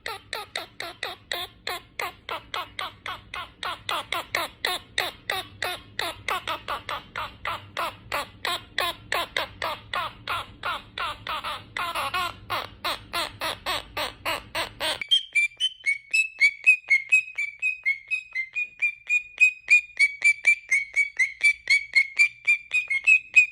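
Parrot calling in a rapid, even series of short squawks, about four a second. About fifteen seconds in it cuts sharply to a higher, thinner series of repeated calls at a similar pace.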